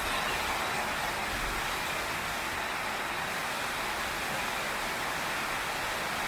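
Heavy rain pouring steadily on a tin roof, an even hiss with no thunder or single drops standing out.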